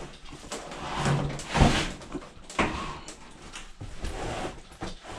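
Irregular knocks and scraping from the washer's cabinet and panels being handled, with the loudest knock about a second and a half in.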